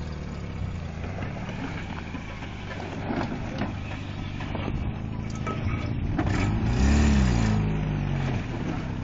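Red Toyota pickup's engine revving as it drives through a mud hole on 31-inch Super Swamper Bogger tires, the tires spinning in the mud. The revs climb to a peak about seven seconds in and drop back.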